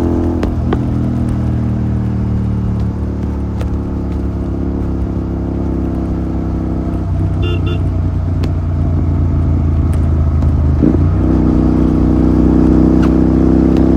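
Royal Enfield GT 650's parallel-twin engine running through a Red Rooster aftermarket exhaust while riding. The steady note turns rougher about halfway in, then comes back and gets louder as the bike picks up speed near the end.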